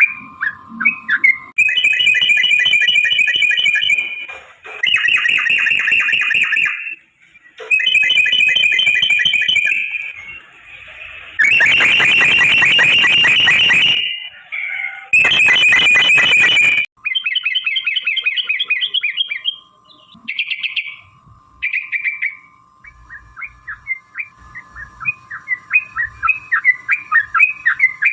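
Yellow-vented bulbuls (trucukan) giving long, fast rolling chatter in repeated bursts of a couple of seconds each, as in a territorial 'fighting' exchange. The chatter breaks into quicker separate chirps near the end.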